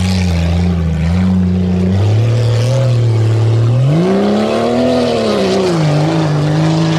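Competition tuff truck's engine running hard under load. Its pitch holds, steps up about two seconds in, swells higher about halfway through, then drops back and holds steady.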